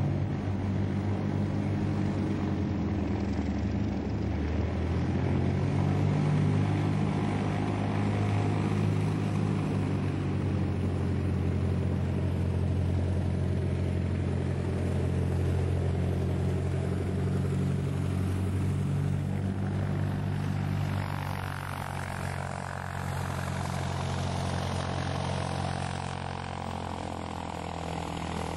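Hughes 300 helicopters' piston engines and rotors running steadily, with a strong low drone. About 20 seconds in the drone weakens and the sound turns brighter, its tone slowly sweeping.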